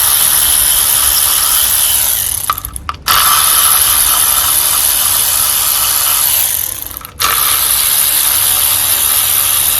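Cordless power ratchet whirring as coil pack bolts are run out on an outboard engine. It runs in long stretches, stopping briefly about two and a half seconds in and again about seven seconds in.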